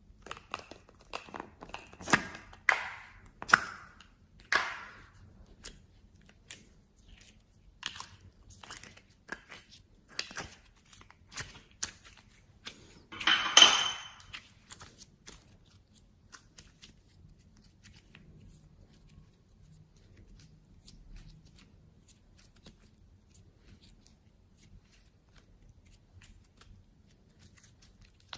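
Slime being squeezed and pressed by hand, giving crackling, popping clicks with one louder crackling burst about halfway through; after that only faint scattered ticks.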